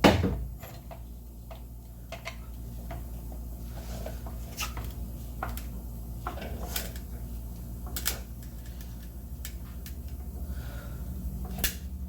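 Irregular metal clanks and knocks, a loud knock right at the start and single ones every second or two: a jack or stand being set under a truck's lower control arm to support it, over a steady low hum.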